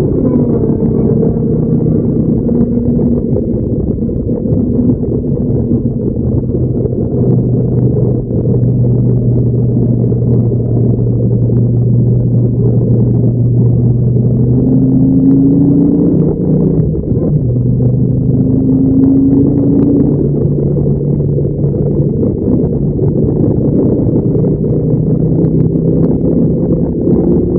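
Dodge Viper SRT10's V10 engine at speed on track, over a steady rush of wind. Its pitch falls as the car slows near the start and holds low through a slow corner. It then rises twice in upward sweeps as the car accelerates through the gears.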